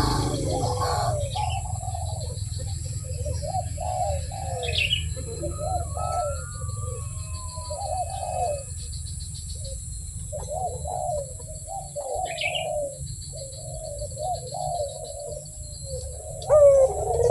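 Puter (Barbary dove) cooing in repeated phrases, with short pauses between them. A steady low hum runs underneath, and short high chirps from another bird come twice.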